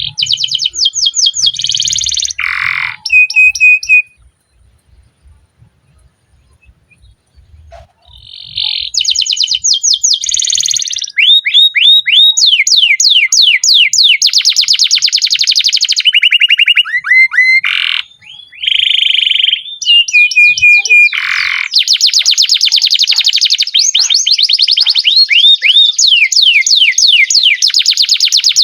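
Domestic canary singing long, rapid rolls and trills: quick repeated sweeping notes, many per second, changing from one trill to the next. A short burst of song is followed by a pause of about four seconds, then almost unbroken song.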